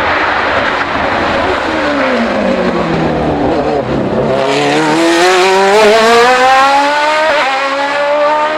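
Race car engine dropping in pitch as the car slows, then revving up steadily as it accelerates hard, with a brief dip about seven seconds in at a gear change.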